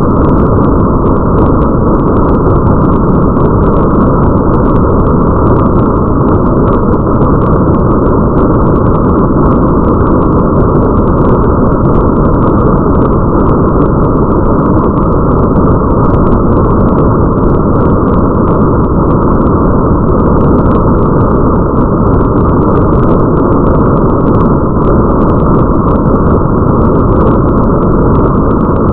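Rain ambience: a steady, muffled rush of rain with a deep rumble under it and a faint patter of drops on top.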